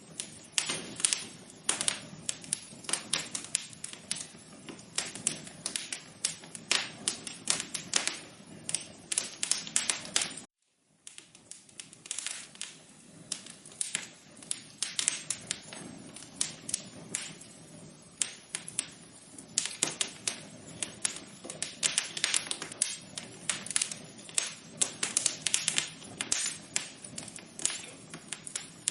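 Wood fire crackling in a fireplace: irregular sharp pops and snaps over a low steady hiss, dropping out to silence for about half a second a little past ten seconds in.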